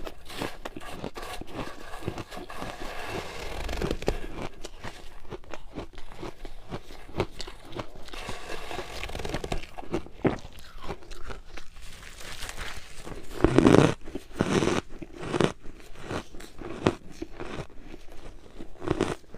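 Close-miked crunching of ice being bitten and chewed, a dense run of sharp cracks and crackles, with a louder burst of crunching about two-thirds of the way through.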